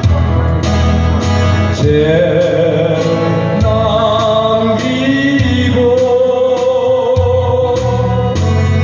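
A man singing a slow Korean folk-pop song with instrumental accompaniment, holding long notes over a steady beat.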